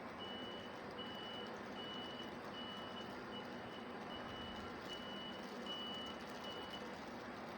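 A high electronic warning beeper sounding one steady tone over and over, a little more than once a second, and stopping near the end, over a steady background rumble.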